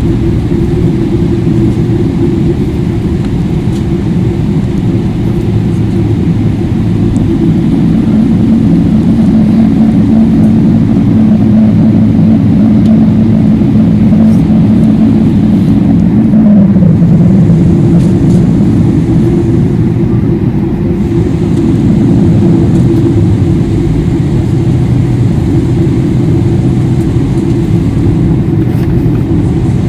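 Steady low rumble of engine and airflow noise inside a Boeing 777-300ER airliner cabin. A hum in it drops in pitch about 17 seconds in.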